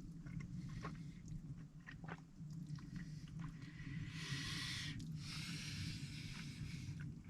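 A person chewing a mouthful of thick, cheesy soup, with small wet mouth clicks, over a steady low hum. About four seconds in, a breathy hiss joins for roughly three seconds.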